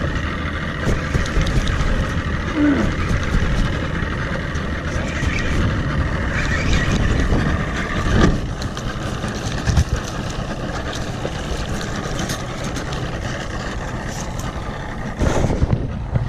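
Boat motor running steadily while trolling, with a couple of brief knocks about eight and ten seconds in.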